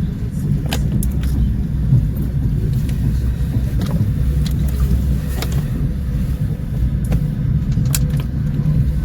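Passenger train running, heard from inside the coach: a steady low rumble of wheels on the track, with a few scattered sharp clicks.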